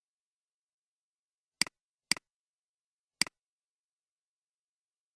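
Computer mouse button clicks: three sharp clicks, the first two about half a second apart and the third about a second later, each a press followed closely by a softer release.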